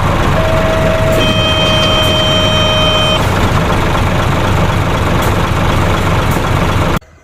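Truck engine running steadily, with a steady horn-like tone sounding for about three seconds from about half a second in.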